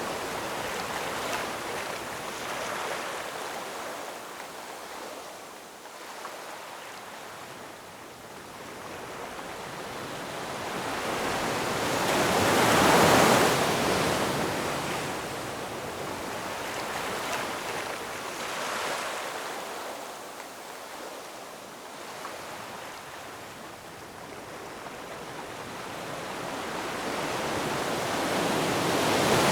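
Ocean waves breaking and washing up the shore, one strong wave surging and falling away about halfway through and another building near the end, with quieter lulls between.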